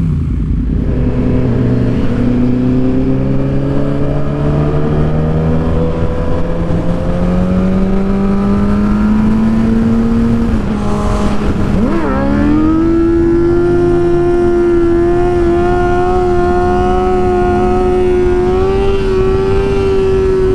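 Sportbike engine heard from the rider's own helmet camera, its pitch rising slowly as the bike gains speed, then dipping and jumping sharply higher about twelve seconds in before holding steady. A low steady wind rush runs underneath.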